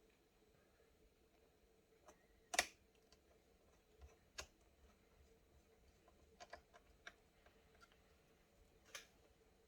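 A few sharp, scattered clicks and taps from handling small laptop parts, the loudest about two and a half seconds in, over an otherwise quiet room.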